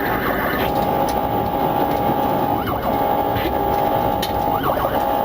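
Police car siren sounding with a steady held tone, broken twice by brief rising-and-falling swoops, over steady background noise.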